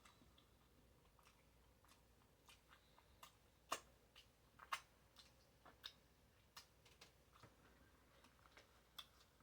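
Slow chewing of a mouthful of bacon cheeseburger: faint, irregular wet mouth clicks, with two louder clicks around four and five seconds in.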